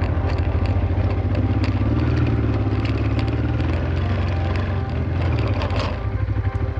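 Honda Transalp's V-twin motorcycle engine running steadily at low speed off-road, with scattered sharp clicks over it. The engine slows near the end.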